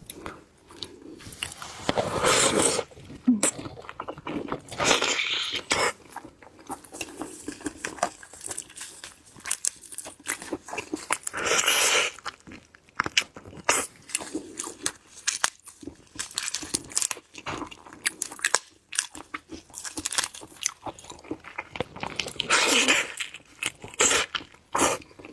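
Close-miked eating of seafood, a big shrimp among it: crunchy bites and wet chewing in irregular bursts. The loudest bites come about 2, 5, 12 and 23 seconds in.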